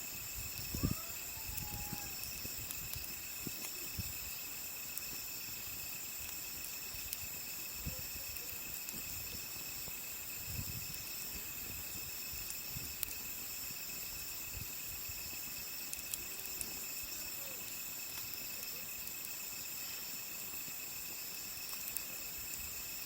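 Crickets and other night insects trilling steadily at several high pitches, with scattered sharp pops and crackles from a wood campfire and a few low soft thumps.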